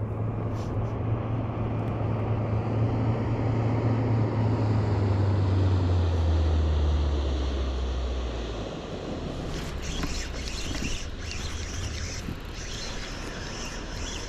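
A boat engine droning low, growing louder, then dropping in pitch and fading out about two-thirds of the way through, like a motorboat passing. Afterwards only a steady hiss with small ticks remains.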